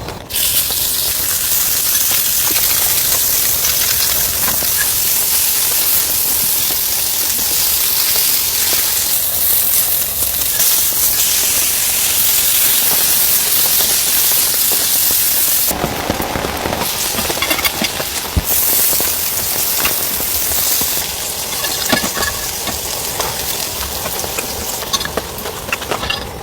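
Heavy rain falling: a loud, steady, dense hiss. Past the middle it briefly turns fuller and lower for a few seconds.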